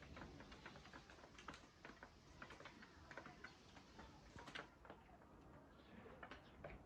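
Faint, irregular light ticks and taps, several a second, with no steady rhythm.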